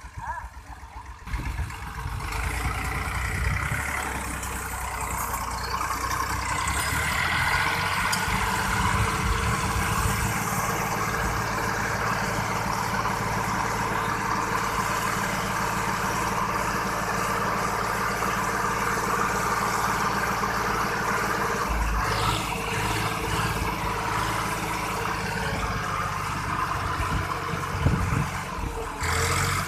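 Tractor engine running. It comes in abruptly about a second in, grows louder over the next several seconds, then holds steady.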